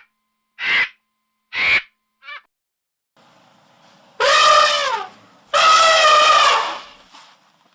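Animal calls: three short harsh calls, then two loud, long, pitched calls about a second each that drop in pitch at the end.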